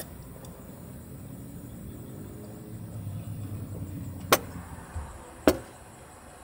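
Low rumble of a car engine running outside the parked van, swelling in the middle, with two sharp clicks about four and five and a half seconds in.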